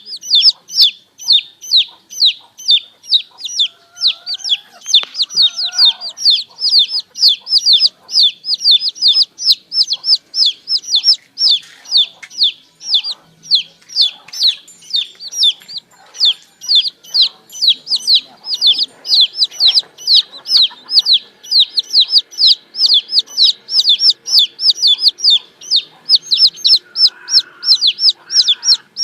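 Baby chicks peeping without pause: a rapid string of high, falling cheeps, about three a second.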